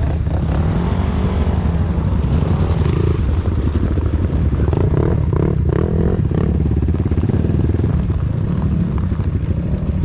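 Enduro motorcycle engine running under throttle as it is ridden, its pitch rising and falling with the throttle. A few brief clicks come near the end.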